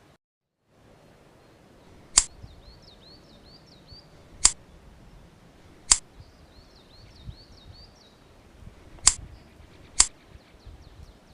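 Pruning shears snipping tamarind bonsai twigs: five sharp snips, one to three seconds apart. A bird chirps in quick repeated phrases in the background.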